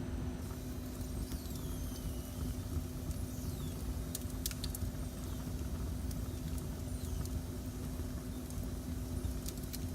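Wood fire burning in a fireplace: a steady low rumble with a constant hum, and a few sharp crackles about four seconds in and again near the end.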